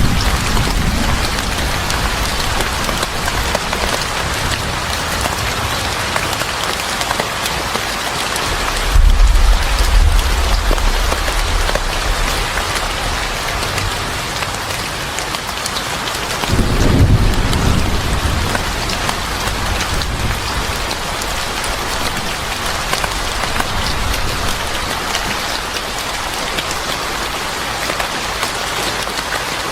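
Steady heavy rain hissing on a surface, with two low rumbles of thunder, one about nine seconds in and another about seventeen seconds in.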